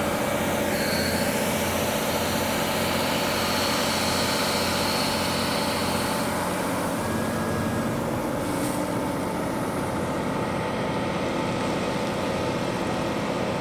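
An engine running steadily at an even level, with a faint high whine.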